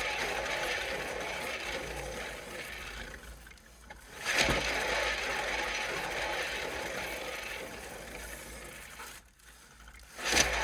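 Cake spinner turntable whirring and rattling as it spins under a painting. It runs down and goes quiet about three and a half seconds in, is spun again by hand with a sudden start about a second later, runs down again near the nine-second mark, and is spun once more just before the end.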